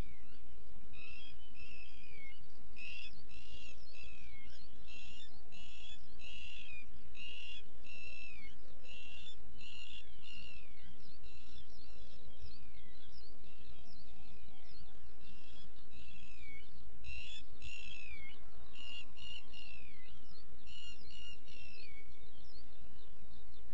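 Birds calling: quick runs of short, down-slurred chirps, repeated throughout, over a steady low rumble.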